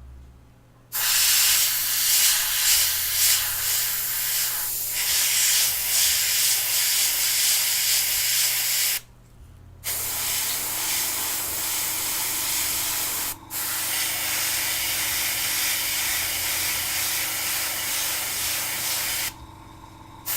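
Airbrush spraying paint: a steady hiss of air and paint that starts about a second in. It breaks off for most of a second midway, pauses very briefly a few seconds later, and stops shortly before the end.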